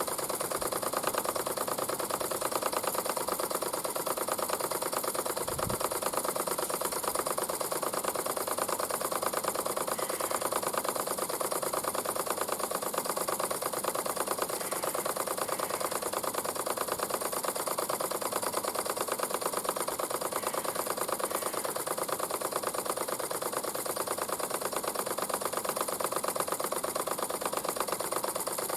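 Mamod SP8 James Watt model steam beam engine running on steam, with a fast, even mechanical ticking rhythm. A single low thump comes about six seconds in.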